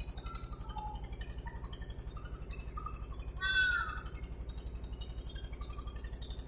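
A single short animal call, meow-like and falling in pitch, about three and a half seconds in, over a steady fast low throbbing.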